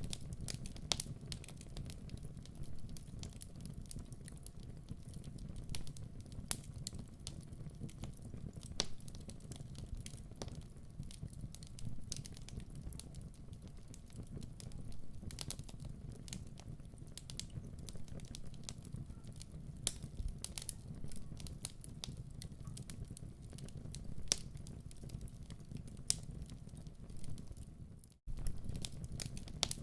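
Wood fire in a fireplace crackling, with irregular sharp pops over a steady low rumble. The sound cuts out for a split second near the end.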